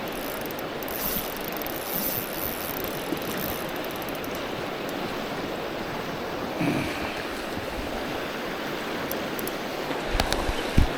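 Steady rush of fast-flowing river water, with a few short knocks and clicks near the end.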